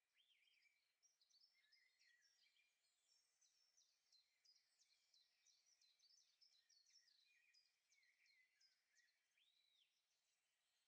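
Faint birdsong from small songbirds: a busy run of quick high chirps and short trills, with one clear whistle that rises and falls near the end.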